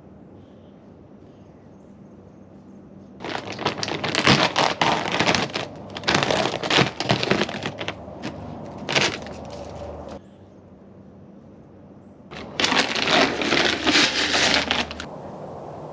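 Footsteps crunching on the ground, a dense crackle with each step. The steps start about three seconds in, stop for about two seconds, then start again.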